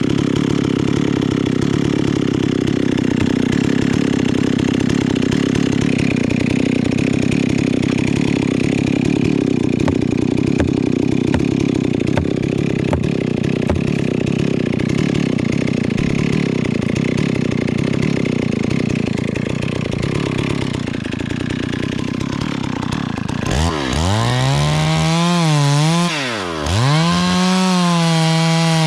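Chainsaw cutting steadily through a tree trunk for most of the stretch. Near the end the cutting noise stops and the engine is revved up and let fall back twice.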